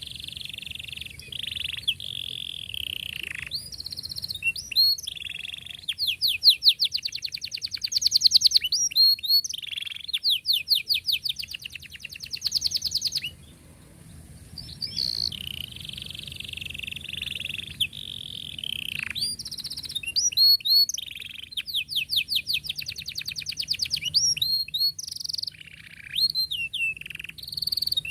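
Domestic canary singing a long song of fast, tight trills (rolls) and chirping notes, breaking off briefly about halfway through before singing on.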